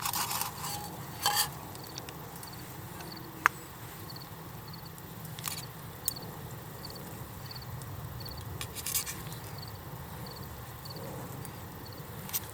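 Wood fire crackling in a wood-stove-style fire pit: a few sharp pops over a low steady rumble. A faint high chirp repeats about twice a second.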